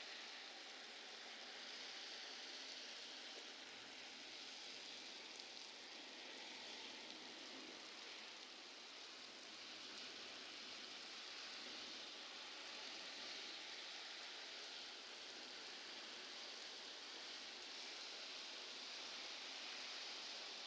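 Steady rain falling, a faint even hiss with no distinct drops or thunder.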